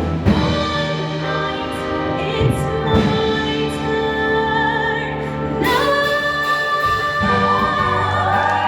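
High school show choir singing over instrumental accompaniment, holding sustained chords, with a few sharp percussive hits in the first few seconds.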